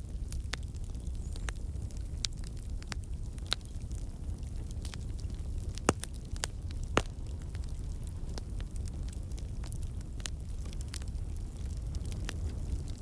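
Wood campfire burning: a steady low rumble of flame with irregular crackles and pops from the logs, two sharper pops about six and seven seconds in. The crackling comes from water and sap in the wood turning to steam and bursting out.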